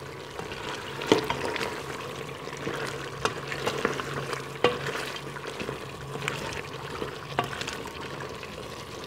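Cubed tinda (apple gourd) and chicken frying in oil and masala in a metal pressure-cooker pot, stirred with a spatula: a steady sizzle, with four sharp knocks of the spatula against the pot. This is the bhuna stage, frying the vegetables in the masala after the oil has separated.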